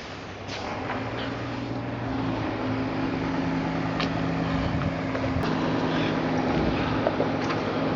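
Sailing yacht's engine running under motor: a steady hum that grows louder over the first couple of seconds, with wind and water noise around it.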